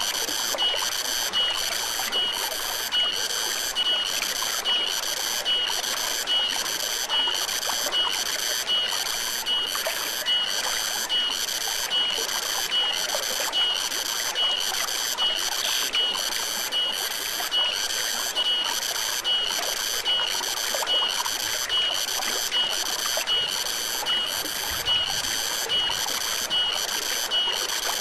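Forest stream flowing steadily, with a high animal call pulsing evenly a little more than once a second over it throughout.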